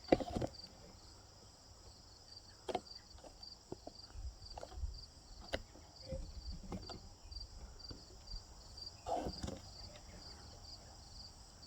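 Crickets chirping steadily at a few chirps a second, with scattered faint clicks and knocks.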